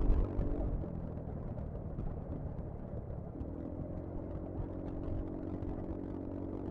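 Yamaha XMAX scooter's single-cylinder engine running at cruising speed, heard from the rider's position with a low wind rumble on the microphone. The engine note fades about a second in and comes back steady a little past the middle.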